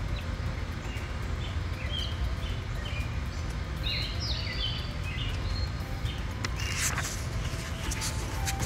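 Small birds chirping in short, scattered calls over a steady low rumble. About seven seconds in comes a brief rustle of a paperback page being turned.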